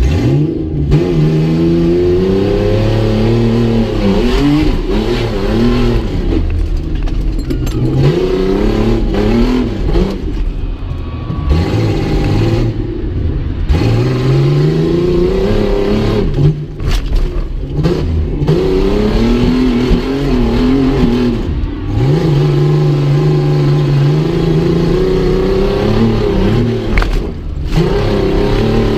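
Ford Ranger pickup's engine revved hard again and again while driving an off-road obstacle course. Its pitch climbs steeply and drops back every few seconds, with short steadier stretches at high revs.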